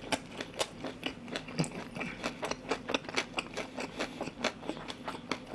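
Close-miked chewing of a mouthful of battered, deep-fried pork (soy-sauce tangsuyuk): a quick, steady run of crisp crunches, several a second.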